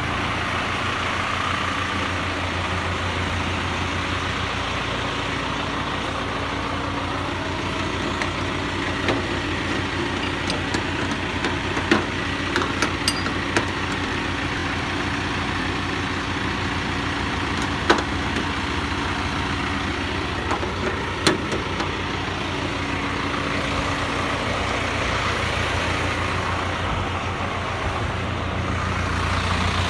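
Truck engine idling steadily, with a few sharp knocks, the loudest about twelve, eighteen and twenty-one seconds in.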